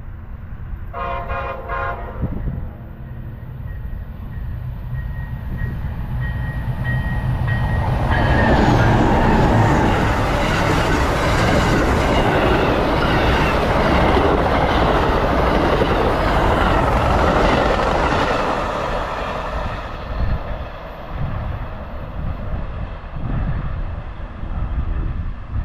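Amtrak Silver Meteor passenger train sounding its horn briefly about a second in, then approaching and passing at speed. The rush and clatter of the train are loudest in the middle and fade near the end.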